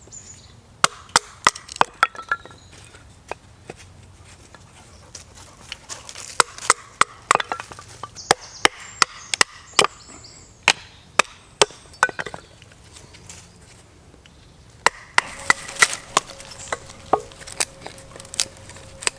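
Oak being split down with a knife, the blade struck through the wood: many sharp knocks coming in irregular runs.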